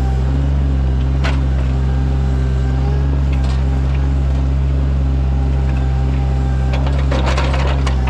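Sany mini excavator's diesel engine running at a steady speed, with a sharp knock about a second in and a burst of clattering near the end.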